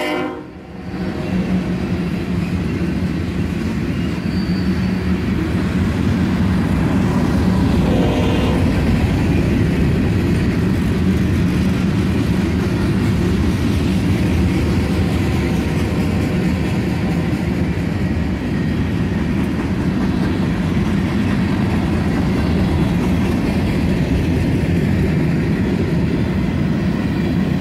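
A CSX freight train's tank cars and covered hoppers rolling past close by, a steady rumble of steel wheels on the rails. A brief higher tone sounds about eight seconds in.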